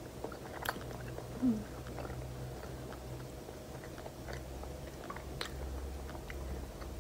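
A person chewing a mouthful of pasta, quiet mouth sounds with faint scattered small clicks, over a steady low hum.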